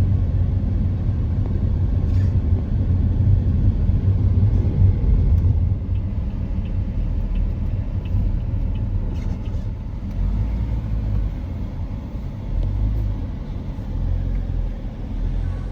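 Low, steady rumble of a car on the move, heard from inside, with a few faint ticks now and then.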